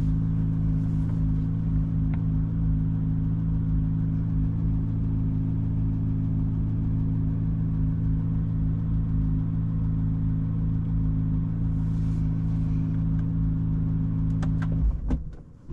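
Corvette Z06's 5.5-litre naturally aspirated flat-plane-crank V8 idling steadily, then shut off about fifteen seconds in, with a few short clicks as it stops.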